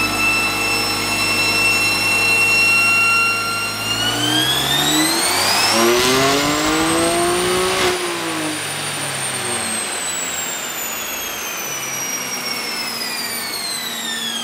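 BMW M3's twin-turbo inline-six on a chassis dyno in fifth gear. It holds a steady note, then makes a full-throttle pull that rises in pitch for about four seconds. After the peak it lifts off and winds down slowly as the car and the dyno rollers coast to a stop.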